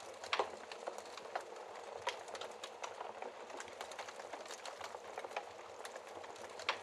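Wood fire crackling in a fireplace: a steady hiss of burning with frequent small crackles and two louder pops, one about half a second in and one near the end.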